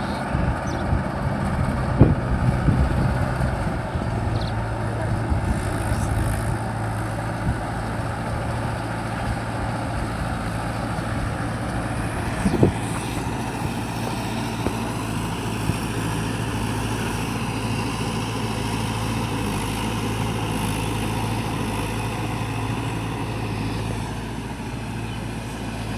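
Mahindra 585 tractor's diesel engine running steadily, with a couple of short sharp knocks, one about two seconds in and one near the middle.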